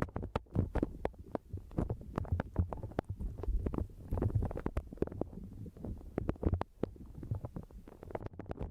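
Close-miked ASMR handling sounds: fast, irregular clicks and taps over a low rumble.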